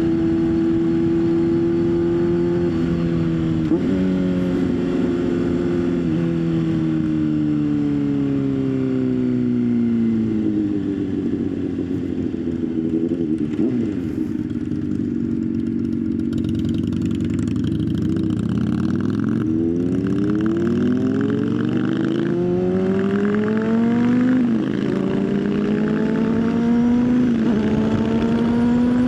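Motorcycle engine on the move: its pitch falls as the bike slows, stays low for a few seconds, then rises again as it accelerates, with short drops near the end as it shifts up.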